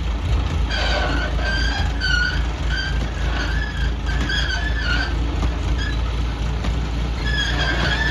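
Heavy crane's diesel engine running steadily, with a string of short, high squeaks over it, about one or two a second, stopping for a moment before starting again near the end.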